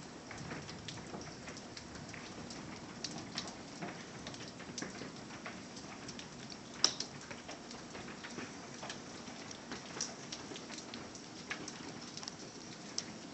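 Hail and rain falling, a steady hiss of rain with hailstones striking a hard surface in irregular sharp ticks, a couple of them noticeably louder.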